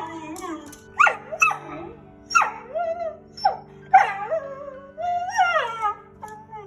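Beagle barking and yelping: about six pitched barks, each sliding down in pitch, the one near the end drawn out longer, over a steady background music bed.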